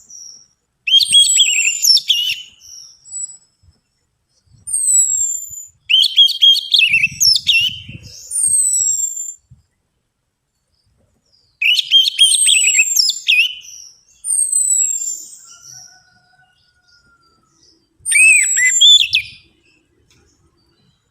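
Orange-headed thrush singing: about five loud phrases of rapid, high, descending whistles and warbling notes, separated by pauses of a second or more.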